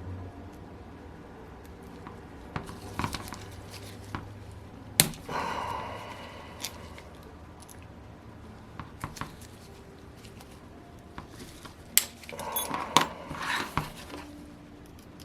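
Small metal hand tools and engine parts clinking and clattering on a workbench while a model engine is taken apart. A sharp metallic click about five seconds in rings briefly, and a burst of clinks and clatter comes near the end.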